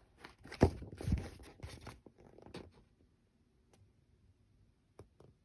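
Handling noise: rustling and scraping with two soft thumps about half a second and a second in, then a few faint clicks near the end.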